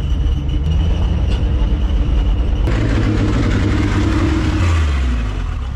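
Engine of a 1955 Willys station wagon running with a steady low rumble. About three seconds in, the sound shifts to a stronger drone with more hiss, and it starts to fade near the end.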